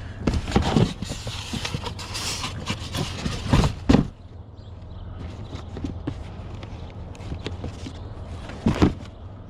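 Rummaging through a curbside junk pile: rustling and a run of knocks and clunks as items are moved for about four seconds, then one more clunk near the end, over a steady low hum.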